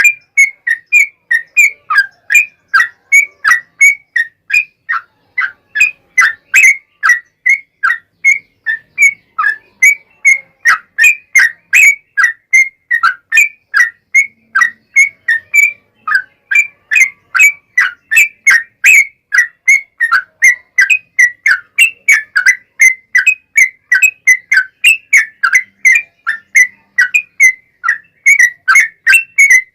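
Yellow-vented bulbul (trucukan) singing a long unbroken run of short whistled notes, two to three a second, repeated steadily without pause.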